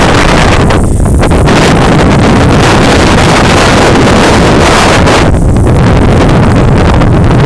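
Strong wind blasting the microphone: a loud, continuous rumble, heaviest in the low end, with brief lulls in the hiss about one second and five and a half seconds in.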